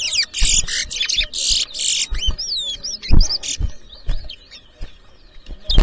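Caged towa-towa (large-billed seed finches) singing, with fast whistled song phrases in the first two seconds, then scattered short whistles. A few dull knocks sound through it, the loudest about three seconds in.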